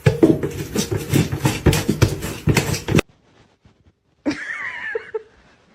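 Rapid clattering and scuffling noise that stops abruptly about three seconds in. About a second later comes a single short, gliding call from a pet animal.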